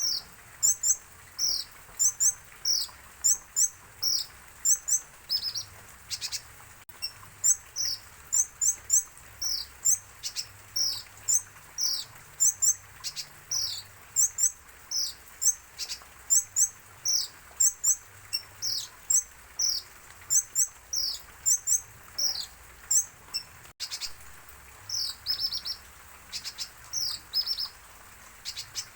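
Caged sunbird (kolibri ninja) chirping over and over: short, high, downward-slurred notes at about two a second, sometimes doubled or tripled.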